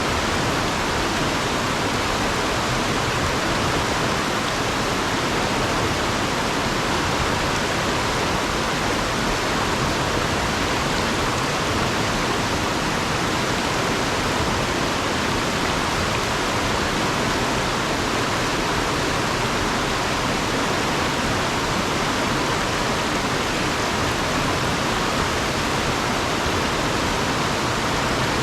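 Fast-flowing river rushing over and around rocks: a steady, unbroken wash of water noise.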